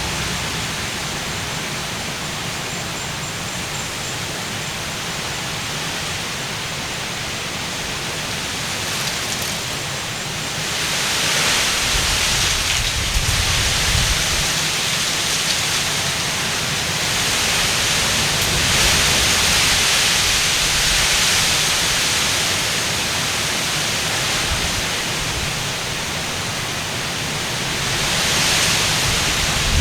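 Hurricane downpour and gusting wind: a steady roar of heavy rain that swells in waves from about a third of the way in, with wind gusts rumbling on the microphone.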